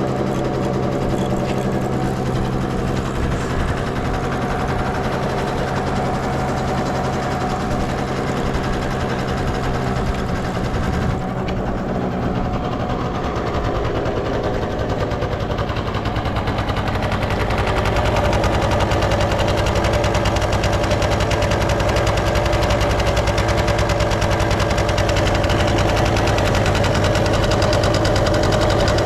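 Suzuki Let's II scooter's carbureted 50 cc two-stroke engine running steadily with no abnormal noise. About eighteen seconds in it grows louder and holds there.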